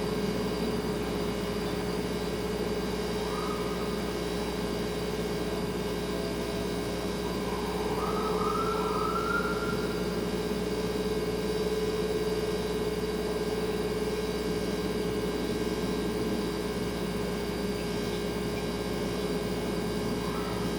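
Refrigerator running with a steady hum, two constant tones over a soft noise. Faint wails rise in pitch a few times, most clearly about eight to ten seconds in.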